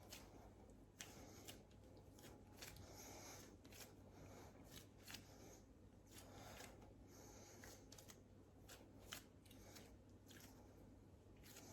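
Faint, irregular clicks, scrapes and rustles of hands working in a kitchen, with no speech.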